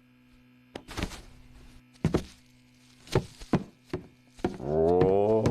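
Cartoon sound effects: a series of short thunks and knocks, then about four and a half seconds in a long, wavering groan.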